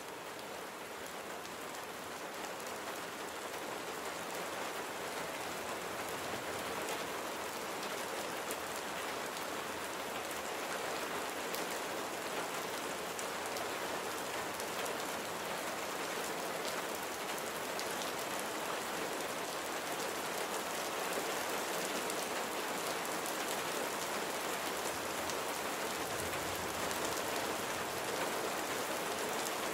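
Steady rain falling on a surface, with individual drops ticking through an even hiss, growing gradually louder.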